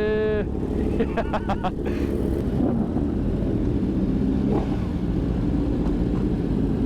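Motorcycle engines running steadily at low revs, with a short run of rapid pulses about a second in.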